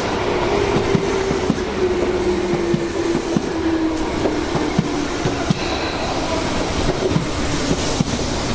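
Tobu Tojo Line electric commuter train running past, its wheels clicking over rail joints and a motor whine slowly falling in pitch, under a steady rush of strong wind on the microphone.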